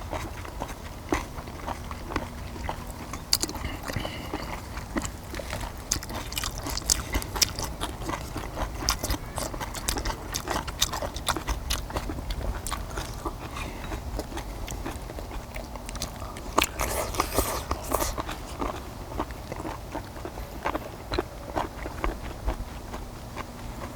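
People chewing and biting stir-fried small octopus with kimchi, with many short wet mouth clicks and a denser run of them about two-thirds of the way through, over a steady low hum.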